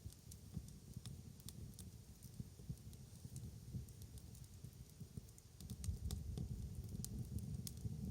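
Wood fire crackling, with irregular sharp pops over a low rumble that grows louder about six seconds in.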